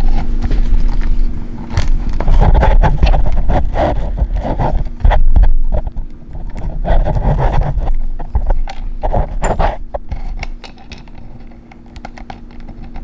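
Handling noise from a camera being repositioned: irregular knocks, clicks and scraping, with a heavy low rumble.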